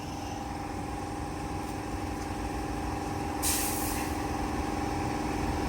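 A vehicle engine running steadily with a low hum, and a short burst of hiss about three and a half seconds in.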